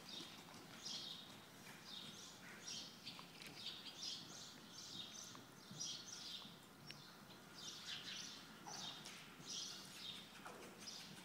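A bird chirping over and over, short high chirps about twice a second, faint.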